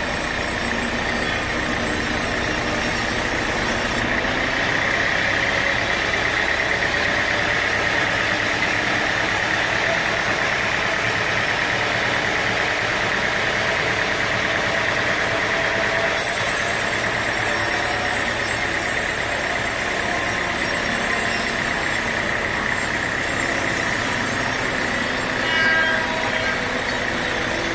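Sawmill machinery running steadily: an engine drone under a constant high whine, with a brief louder swell near the end.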